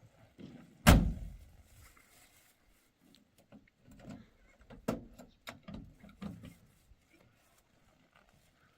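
A single loud thump about a second in, followed later by a run of lighter knocks and clatter.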